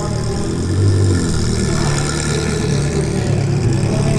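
Sports car engines running at low speed as exotic cars pull slowly away, a steady low exhaust note that swells briefly about a second in.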